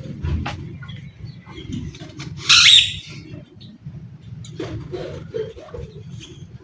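Birds cooing in low, wavering calls, with a short, loud rushing noise about two and a half seconds in.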